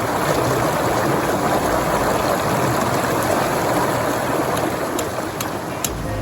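Running water: a steady, even rush, with a few faint clicks near the end.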